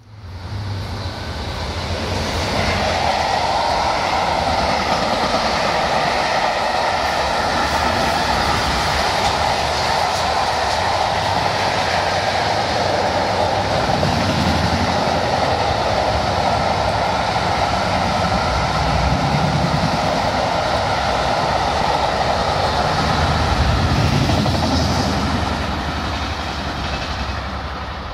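Freight train of covered wagons and double-deck car-carrier wagons rolling past: a steady rumble of steel wheels on the rails that builds over the first couple of seconds and fades near the end as the train draws away.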